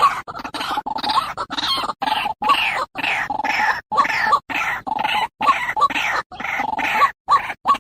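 White-breasted waterhen (ruak-ruak) calling in a fast, unbroken run of short repeated notes, about three to four a second, with brief sharp breaks between them.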